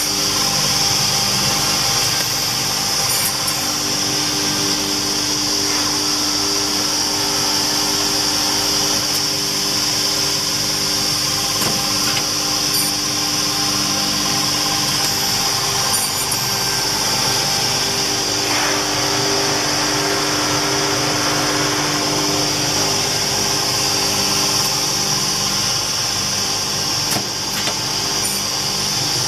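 SCM Olimpic K203 edge banding machine running, its motors and cutters giving a steady mechanical hum with a high whine and a few faint clicks.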